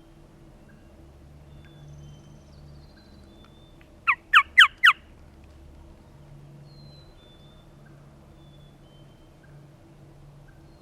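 Four loud turkey yelps in quick succession about four seconds in, each note falling in pitch, with faint songbird notes in the background.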